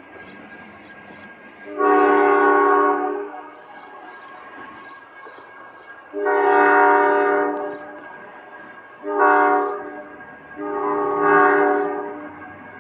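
Horn of an Ohio Central B23-7R locomotive sounding four blasts, long, long, short, long: the standard grade-crossing signal. Faint bird chirps between the blasts.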